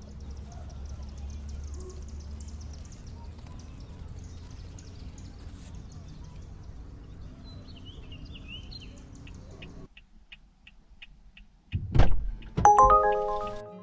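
Steady low road rumble of a car on the move, with faint bird chirps. It drops away about ten seconds in to an even ticking, then a loud thump and bright chiming musical notes near the end.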